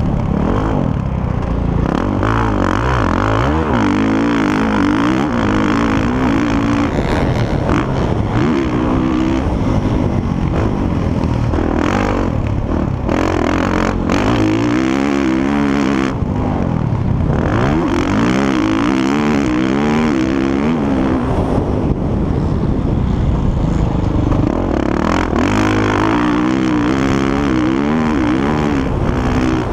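Motocross bikes' engines revving, their pitch rising and falling over and over as the riders open and close the throttle and shift gears, several bikes overlapping.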